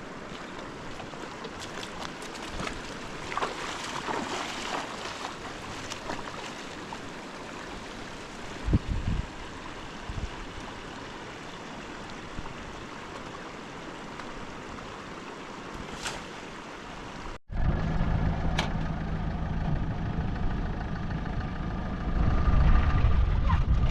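Steady rush of river water with a few scattered knocks; after a sudden cut about seventeen seconds in, a louder, steady low motor hum takes over.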